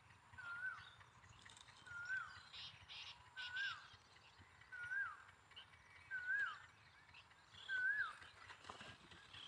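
A bird calling over and over: one short whistled note that rises and then falls in pitch, repeated about every one and a half seconds, with a brief cluster of higher chirps about a third of the way in.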